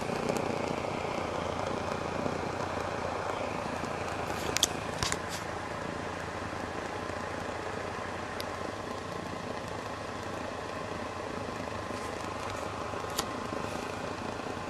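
Homemade methylated-spirit Super Burner for model steam engine boilers burning with a jet flame, a steady blowtorch-like rushing sound. A few sharp clicks come about four and a half seconds in, and one more near the end.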